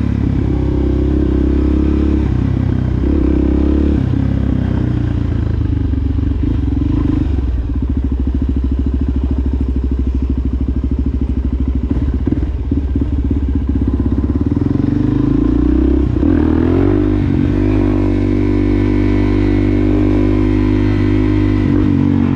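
2020 Suzuki DRZ400SM's single-cylinder four-stroke engine running through its Yoshimura exhaust, holding a steady pitch for long stretches. It has a choppier, slower beat for a few seconds in the middle. The pitch rises and falls about 16 seconds in, then settles steady again.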